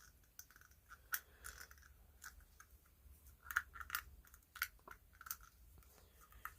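Faint, scattered small clicks and taps with brief light rubbing as an old flashlight is handled and its glass lens wiped dry.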